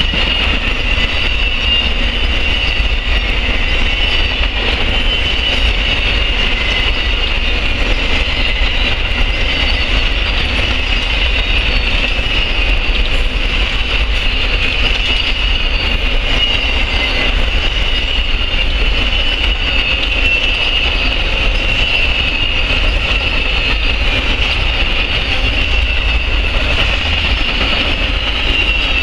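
Amtrak Auto Train autorack cars rolling past at speed. Their steel wheels make a steady loud rumble on the rails, with a sustained high-pitched tone above it that wavers slightly in pitch.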